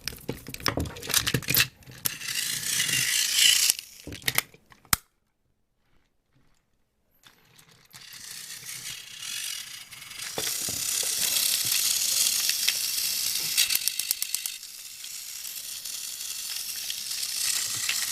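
Battery-powered Plarail toy engine's small electric motor and plastic gears whirring, with rapid clicking. It now runs after a wiring repair. The whirring stops for a couple of seconds partway through, then starts again and runs steadily.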